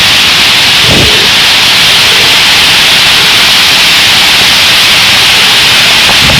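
A roosting flock of thousands of purple martins calling all at once, their chatter merging into one loud, steady, hissing din.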